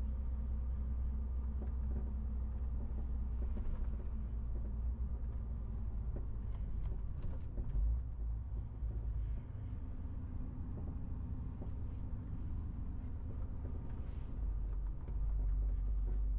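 MAN TGX 18.470 truck's inline-six diesel running under way, with a steady deep engine and road rumble and a few light knocks and rattles. The low rumble eases a little past halfway and comes back up near the end.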